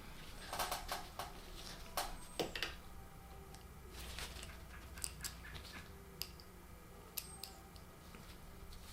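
Scattered small clicks and taps of ceiling fan hardware being handled and fitted by hand, over a faint steady hum.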